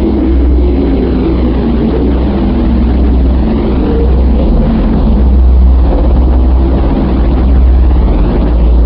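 Loud, steady engine-like rumble with a deep hum underneath and a sweeping, whooshing texture above it.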